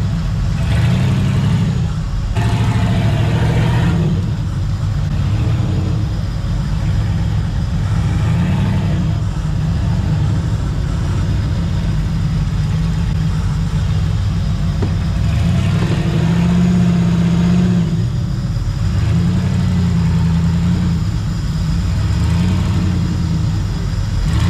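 Off-road 4x4 engine revving in repeated bursts, the pitch rising and falling, between stretches of lower running.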